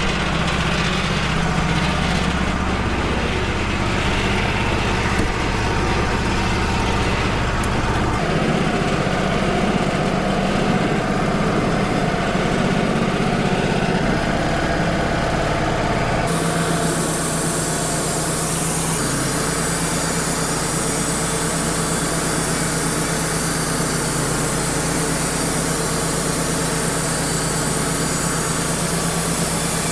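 A Wood-Mizer LT35 portable sawmill runs steadily with its engine hum. The engine note shifts about 8 seconds in, and about halfway through a bright, steady hiss joins it as the band blade makes the opening cut into an eastern red cedar log.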